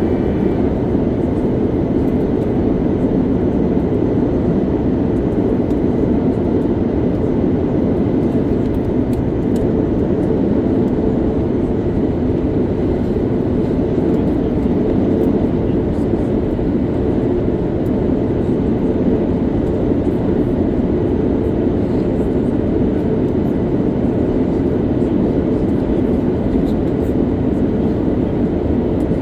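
Steady in-flight cabin noise of an Airbus A330-900neo heard from a window seat: an even, unbroken rush of airflow and engine noise.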